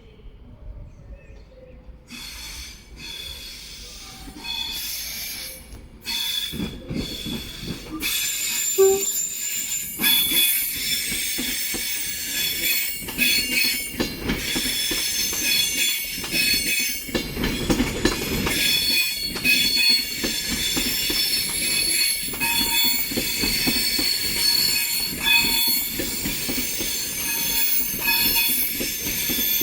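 Train wheels squealing against the rails: many high-pitched squeals at once over a low rumble, swelling to full loudness about eight to ten seconds in and carrying on.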